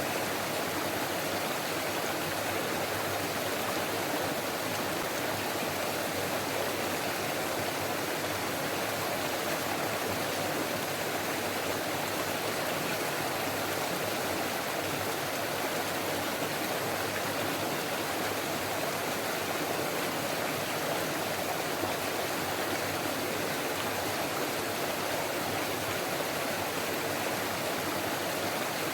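Forest stream running over rocks: a steady, unbroken babbling of water.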